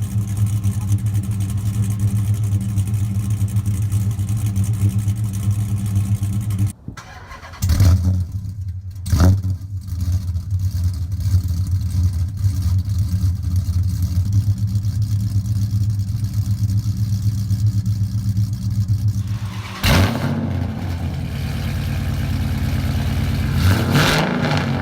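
Chrysler 300 SRT8's cammed 6.1-litre Hemi V8 idling through a loud exhaust, blipped to a quick rev several times, in a few spliced clips of the car before and after straight piping.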